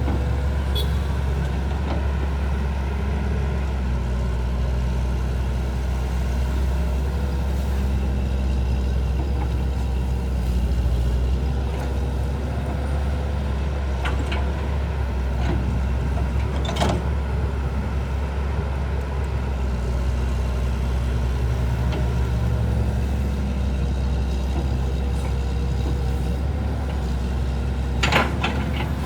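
An engine running steadily with a low hum, with a few sharp knocks, one about halfway through and a louder one near the end.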